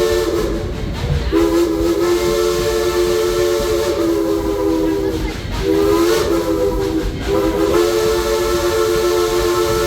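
Steam whistle of narrow-gauge steam locomotive Engine 192, blowing a steady chime in long blasts with a couple of brief breaks where the pitch wavers, over a hiss of steam.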